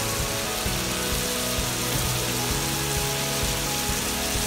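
Chicken pieces sizzling steadily in a hot pan as they brown, with background music playing.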